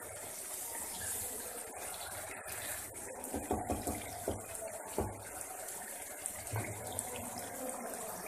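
Beef, potatoes and tomato masala frying in oil in a pot, a steady hiss at the bhuna stage where the masala has released its oil. A few light knocks come between about three and seven seconds in.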